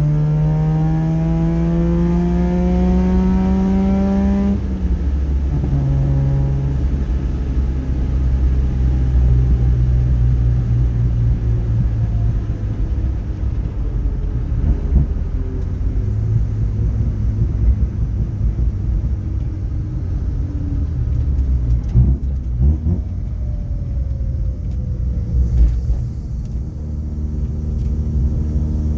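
Mazda RX-7's rotary engine on a Weber 48 IDA carburettor, heard from inside the cabin while driving. Its pitch rises under acceleration, then drops suddenly about four and a half seconds in at a gear change. It runs on at part throttle, falls off in pitch later and climbs again near the end, with a few knocks past the middle.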